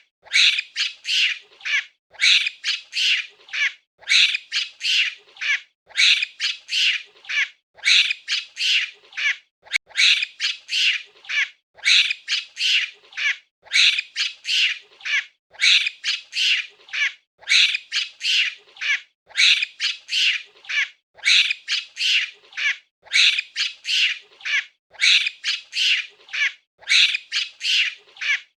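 Monkey calls: short, high-pitched calls in quick runs of four or five, a run about every two seconds, repeating evenly.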